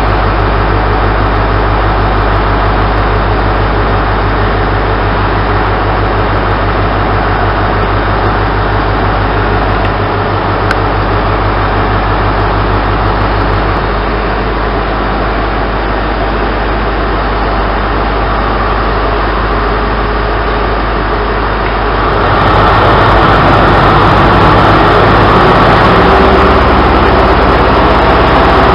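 Onboard an InterCity 125 high-speed train: a steady low engine hum and carriage noise. About 22 seconds in it becomes louder and rougher.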